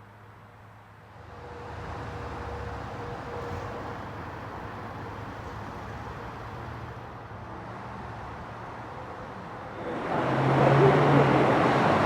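Car going by on the road, its noise swelling about a second in and again, much louder, near the end.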